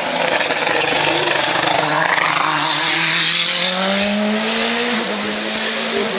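Hill-climb race car passing at full throttle, its engine note rising through the gears, with upshifts about five and six seconds in.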